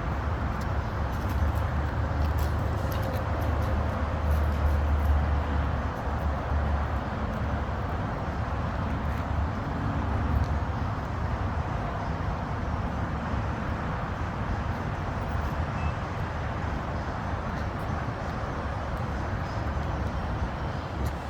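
Garbage truck's diesel engine running steadily, a deep rumble that swells for a few seconds about four seconds in.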